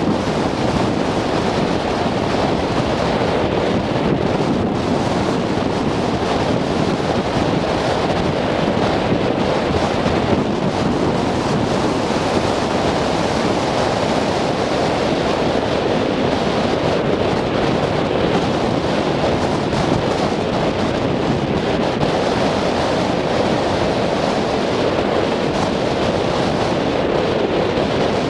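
Strong wind buffeting the microphone: a loud, steady rush with no letting up.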